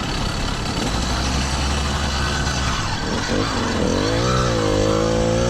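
Motorized bicycle's small two-stroke kit engine running, with wind noise over it. About four seconds in, a pitched engine note climbs and then holds.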